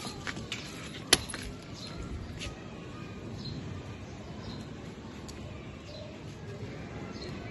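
Faint short bird chirps over a steady outdoor background, with one sharp click about a second in and a few lighter ticks near the start.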